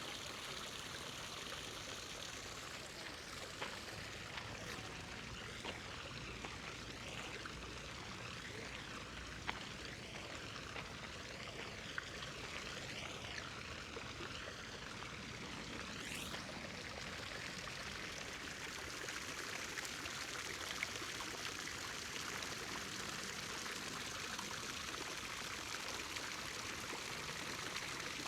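Steady splashing of running water from a fountain, growing a little louder in the second half, with a few faint clicks.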